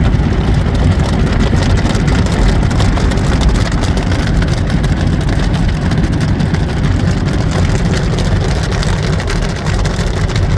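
Car wash equipment running: a steady low rumble with a hiss and fine crackle over it.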